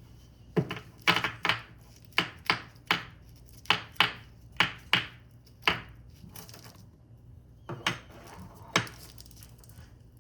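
An irregular series of about a dozen sharp knocks on a hard surface, as of a tool striking a wooden board or bench, over about eight seconds.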